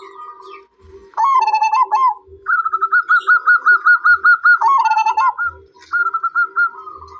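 Zebra doves (perkutut) calling: phrases of quick, rhythmic cooing notes, the longest a rapid run of notes near the middle, over a fainter, lower cooing underneath.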